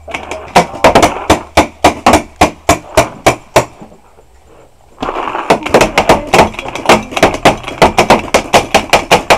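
Rapid paintball fire: a run of sharp pops about three a second, a short lull a little under four seconds in, then a faster run of about five a second.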